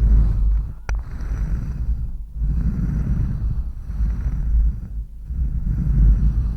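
An ASMR trigger being rubbed right against a sensitive microphone: a dense, low, rumbling scratch texture in long strokes, broken by short pauses about two seconds and five seconds in, with one sharp click about a second in.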